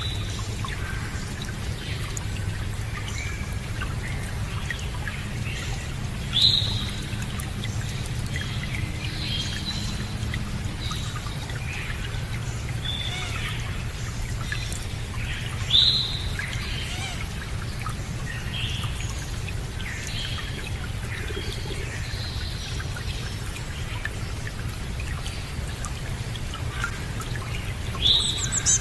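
Steady running water with many small birds chirping and singing over it. A louder bird call stands out three times, about every nine to ten seconds.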